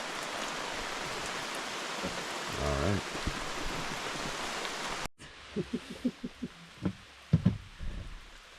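Steady rain falling, an even hiss, which cuts off about five seconds in; after that come a few light knocks and clicks.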